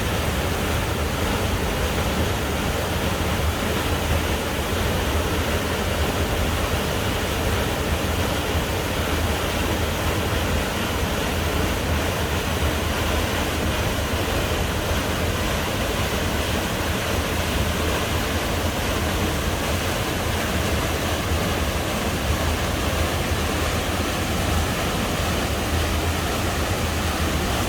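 A waterfall rushing steadily, with a deep rumble underneath.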